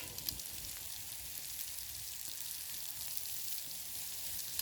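Chops sizzling on a grill over campfire coals: a steady hiss with scattered small crackles and pops, and a sharp click just after the start.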